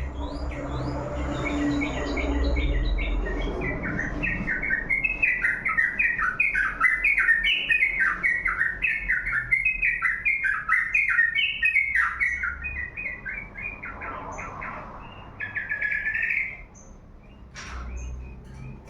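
Pet songbird singing a long run of rapid, repeated down-slurred chirps, followed near the end by a short buzzy note.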